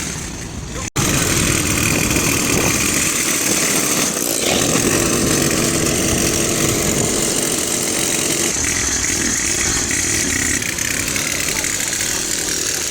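An engine running steadily and loudly, with a brief cut-out about a second in.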